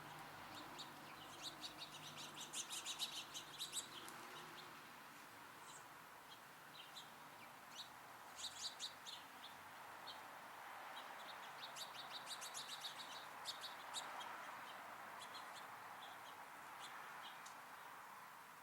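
Small songbirds chirping in three bursts of quick, high notes: about two seconds in, around eight seconds, and from about eleven to fourteen seconds. A faint steady background noise runs underneath.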